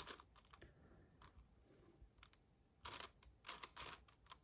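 Magnetic 7x7 Rubik's cube turned by hand: faint plastic clicks and clatter of layers snapping round, with a quick run of turns about three seconds in.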